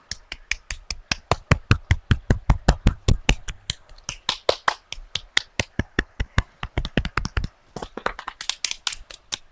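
Rapid sharp taps and knocks on the microphone, about seven a second, pausing briefly about three-quarters of the way through.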